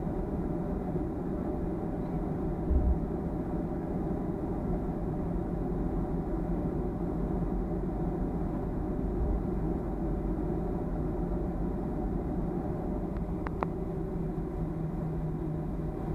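Steady low rumble inside the cabin of a Boeing 737-300 with its engines running, and a single low thump about three seconds in.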